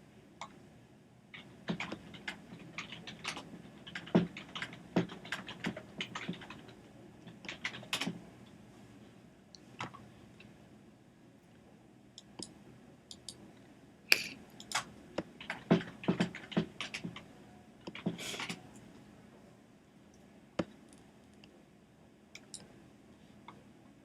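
Typing on a computer keyboard: a run of rapid key clicks lasting several seconds, a pause of about five seconds with only scattered clicks, then a second run of typing.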